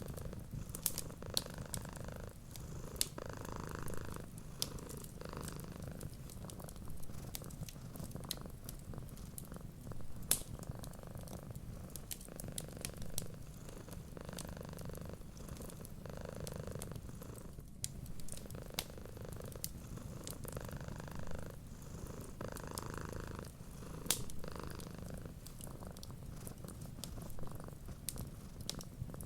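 Cat purring steadily, with sharp pops and crackles of a wood fire scattered through it.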